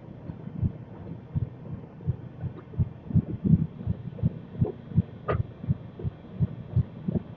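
Passenger train running, heard from on board: a rumble of low, uneven thumps, several a second, with one sharper click about five seconds in.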